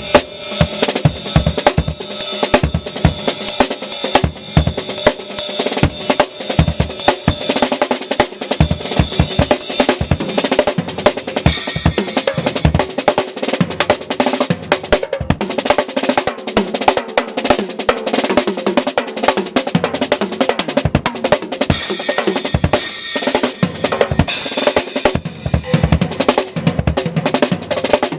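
Drum kit played outdoors: a busy, continuous groove and fills on snare, bass drum and toms, with cymbals ringing over it.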